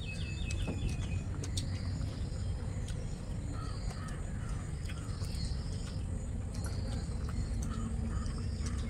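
Birds chirping and calling, with a quick run of high chirps at the start and scattered short calls throughout, over a steady low hum.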